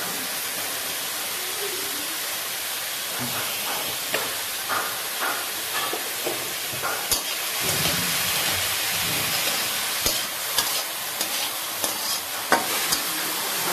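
Diced vegetables sizzling in oil in a metal kadai, stirred with a metal spatula that scrapes and clicks against the pan now and then. The steady sizzle runs under the strokes, with a sharper clack near the end.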